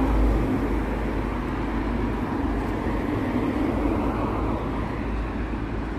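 Steady road noise and low rumble of a moving car.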